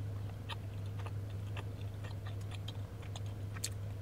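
Close-miked chewing of a mouthful of buttered bagel: soft, scattered mouth clicks and smacks, over a steady low hum.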